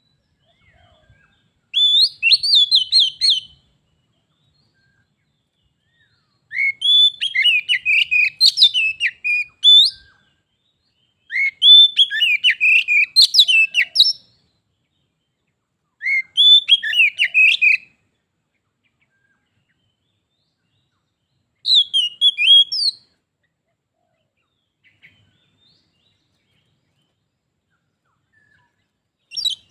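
Oriental magpie-robin singing in five bouts of fast, varied whistled phrases, each a second or three long, with pauses of a few seconds between them.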